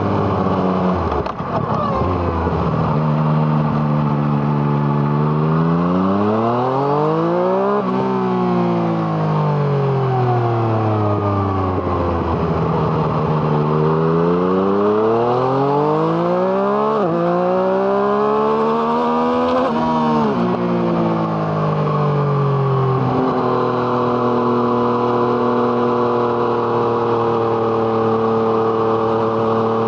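2017 Yamaha MT-09's 847 cc three-cylinder engine through an Arrow Thunder exhaust, heard onboard: it revs up and falls back several times through the gears, with sudden pitch drops at quick upshifts, then holds a steady note for the last few seconds.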